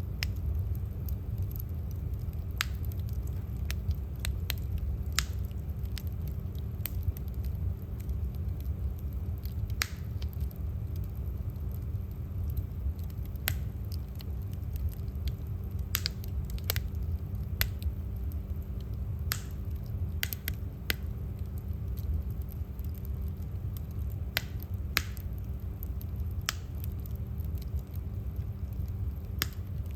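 Firewood burning in a fireplace: sharp crackles and pops at irregular intervals over a steady low rumble.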